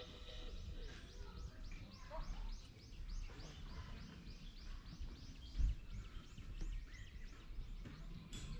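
Small forest birds chirping: a long run of short high notes, about four a second, over a low background rumble.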